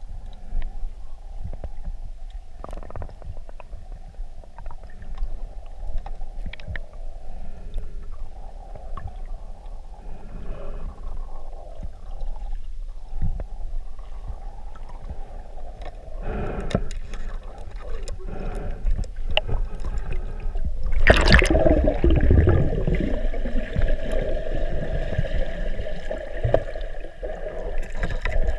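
Underwater gurgling and bubbling with scattered clicks, and a louder rush of bubbles about 21 seconds in, as from a diver breathing out through a regulator.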